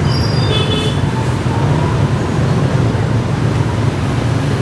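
Steady street traffic rumble, with a brief high squeal in the first second.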